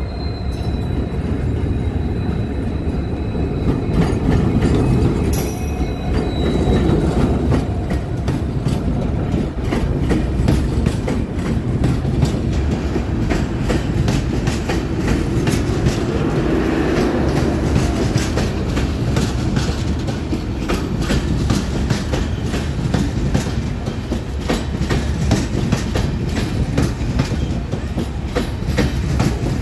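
Diesel-hauled passenger train rolling past along the platform. A low rumble comes first as the locomotive passes; from about ten seconds in, the coaches' wheels clatter over the rail joints in a steady, rapid clickety-clack.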